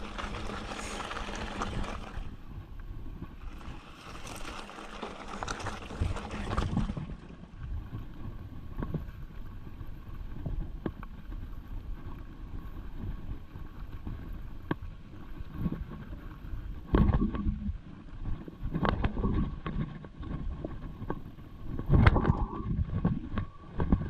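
Mountain bike being ridden over rough trail: wind buffeting the microphone for the first several seconds, then tyre rumble with scattered knocks and rattles from the bike, and two heavier bouts of jolting in the second half.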